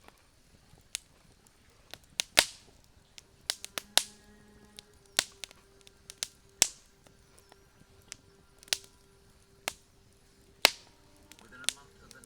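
Wood campfire crackling: irregular sharp pops and snaps, a few of them much louder than the rest, over a quiet background.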